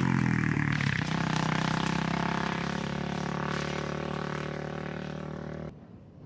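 Quad (ATV) engine whose revs fall away at the start and then hold steady while slowly fading. It cuts off abruptly near the end, leaving faint wind noise.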